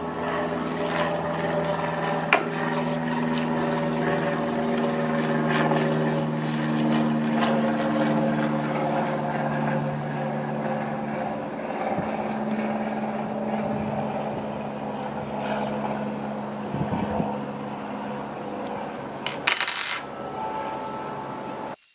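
A motor-driven workshop machine running steadily with a hum, over many small metallic clicks and clinks. There is a brief louder burst near the end before it cuts off abruptly.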